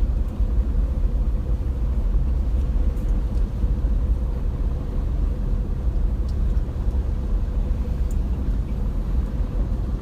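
Steady low engine rumble of a vehicle, with a faint constant hum above it.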